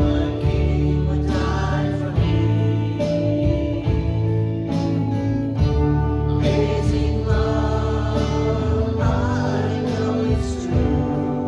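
Live worship band music: singing over guitar, bass and drums with a steady beat.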